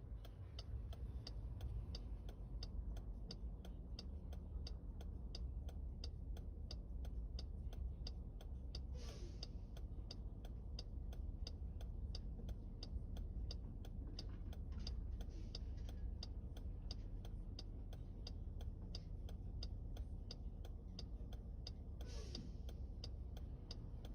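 Steady, evenly spaced ticking, about two and a half ticks a second, over a faint low rumble.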